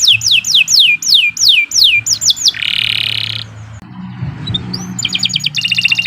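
Domestic canary singing: a run of quick falling whistled notes, about four a second, then a short buzzy trill, and a fast rattling trill near the end.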